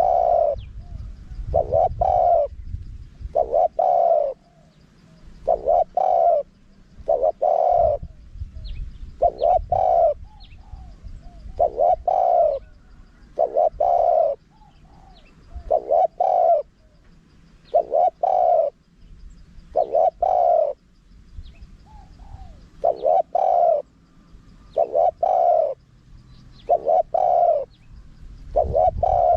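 Spotted dove cooing over and over, its deep coo phrases coming about every two seconds. This is a male's advertising call used as playback to lure wild doves.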